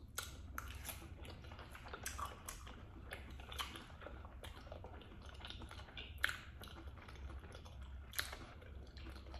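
Close-miked chewing and eating mouth sounds: irregular wet clicks and smacks, with a sharper click about six seconds in and another about eight seconds in, over a faint steady low hum.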